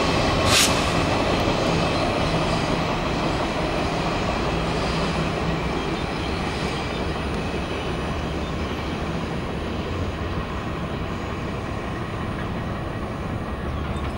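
Freight train hauled by an orange diesel locomotive rumbling past and slowly fading as it runs off into the distance, with a brief hiss about half a second in.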